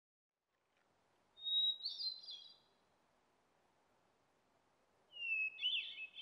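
A songbird singing two short phrases, each opening with a clear whistled note that runs into a quick jumble of notes, the second phrase coming about four seconds after the first, over a faint background hiss.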